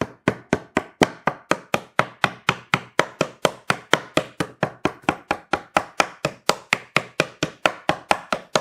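Rapid, even tapping on a cedar-wood beehive box panel, about four knocks a second, driving its dovetail joints together.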